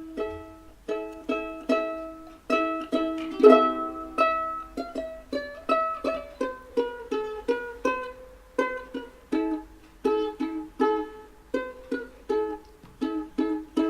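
Background music played on a plucked ukulele-like string instrument: a light, bouncy melody of quickly decaying notes, several a second.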